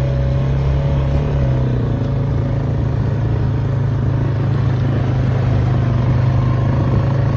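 A vehicle engine running at a steady speed, its pitch dropping slightly about a second and a half in.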